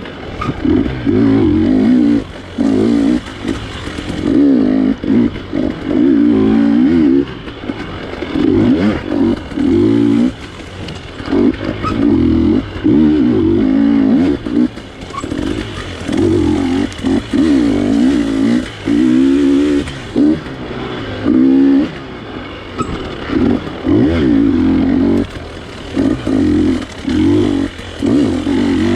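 GasGas dirt bike engine revving in short bursts of throttle, cut back between each one, over and over as it works through tight terrain.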